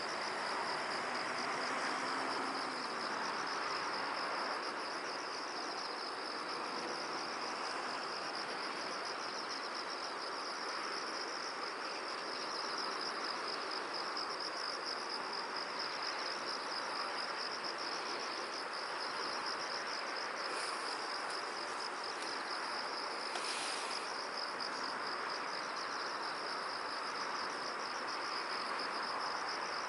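Steady, rapidly pulsing high-pitched trilling of insects over an even background hiss, with a brief higher sound about 23 seconds in.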